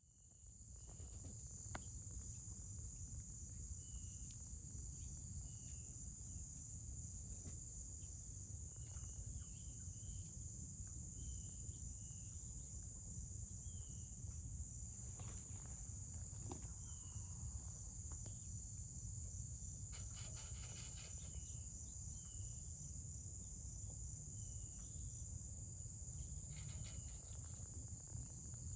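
Steady high-pitched insect drone, with short chirps every second or two and a constant low rumble underneath.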